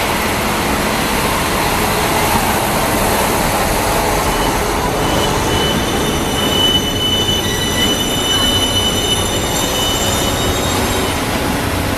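A train running close by over the rails with a steady rumble; about four seconds in, its wheels begin a high, steady squeal on the rails that lasts several seconds, then fades near the end.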